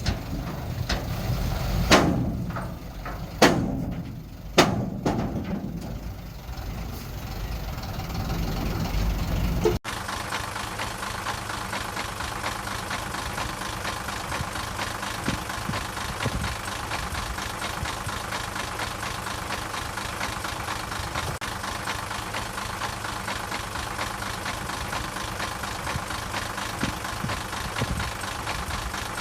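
Heavy diesel earthmoving machinery: an engine running under several loud clanks and bangs in the first few seconds, then, after an abrupt cut about ten seconds in, a diesel engine idling steadily.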